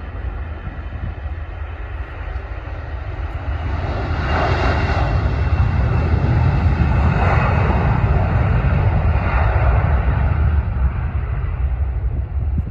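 Airbus A321 jet engines at takeoff thrust as the airliner takes off: a deep rumble that builds from about three seconds in, is loudest through the middle, and fades toward the end.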